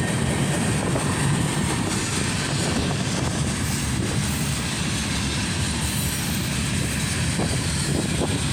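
Freight train cars rolling past on the rails, a steady rumble.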